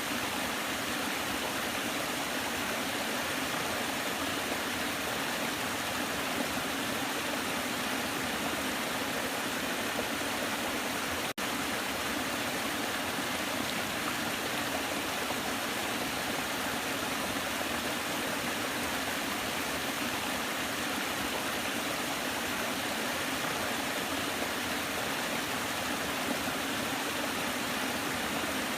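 Waterfall: a steady rush of falling water, with a momentary drop-out about eleven seconds in.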